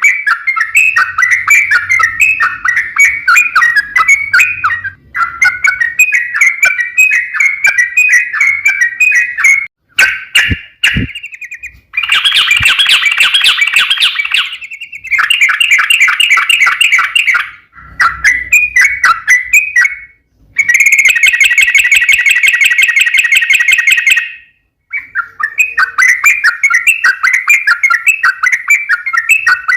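Yellow-vented bulbul (trucukan) singing loud, rapid, chattering phrases in long runs with short breaks, including a long rolling trill ("ropel panjang") near the end.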